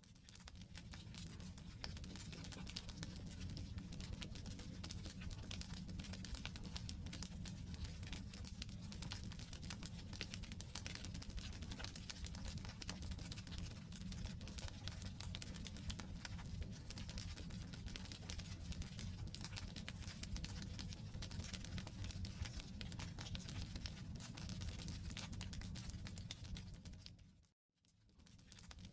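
Wood fire crackling steadily, thick with small pops and snaps over a low rumble of burning logs. Near the end it fades out to silence for a moment, then comes back.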